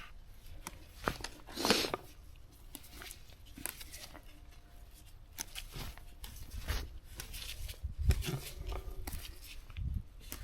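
Garlic mustard being picked by hand: a scatter of soft snaps and crackles from stems breaking and leaves rustling, with some low rumble from handling near the end.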